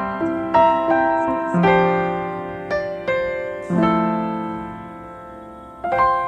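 Background piano music: slow notes and chords struck one after another, each fading away before the next.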